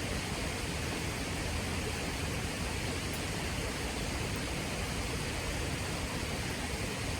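Steady rushing of flowing river water, an even hiss that doesn't change, with one faint click about three seconds in.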